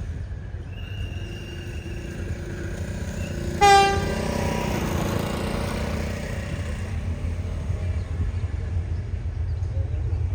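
Train running with a steady low rumble, and one short, sharp horn toot about three and a half seconds in.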